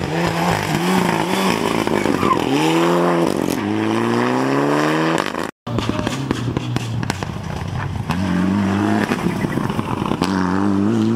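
Rally car engine accelerating hard under load, its pitch rising through each gear and dropping at each upshift, several times over. The sound cuts out for a moment about halfway through.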